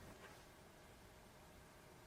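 Near silence: a faint steady hiss, with one faint brief sound about a quarter second in.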